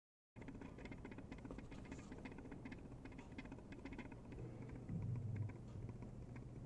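RepRap 3D printer printing, a faint run of rapid, irregular ticking over a steady low hum. The hum swells for about half a second around five seconds in.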